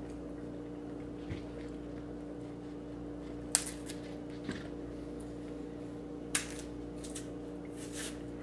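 Banana being eaten: a few short, sharp wet mouth clicks and smacks from chewing, spaced a second or so apart, over a steady background hum.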